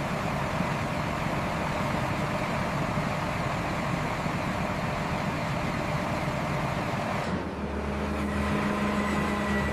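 Heavy machinery running with a dense, steady rumble. About seven seconds in, the sound changes to a steady engine-like hum with several held tones.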